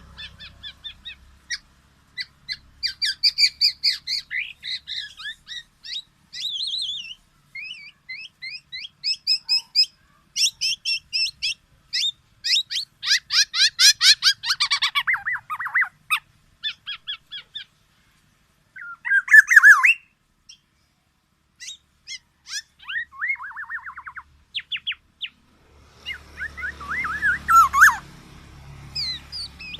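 Kepodang (black-naped oriole) calling: a varied run of quick chirps, rapid trills and harsher squawking notes, broken by a couple of short pauses after the middle.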